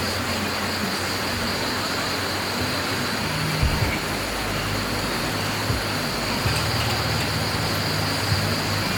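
Steady rushing of stream water, with a constant high-pitched hum above it and a few soft knocks.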